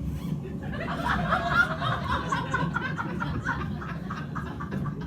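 Theatre audience laughing, building up about a second in and thinning out near the end.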